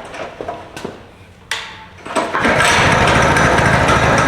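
Small gas engine of a child's off-road kart starting about two seconds in after a couple of knocks, then running steadily at high speed with its drive wheel raised off the ground.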